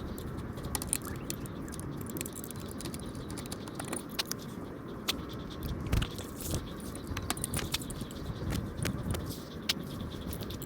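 Scattered light metallic clicks, clinks and scrapes of tools and metal parts being handled, over a steady low rumble.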